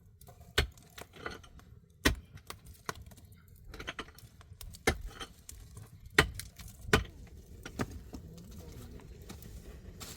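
A series of about six sharp knocks at irregular intervals, with lighter clicks and clatter between them.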